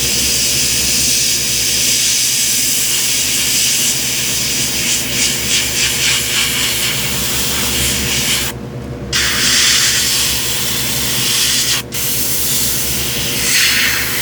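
Airbrush spraying paint in a steady hiss. It stops for about half a second once about eight and a half seconds in, and again briefly near twelve seconds, as the trigger is let off. A steady low hum runs underneath.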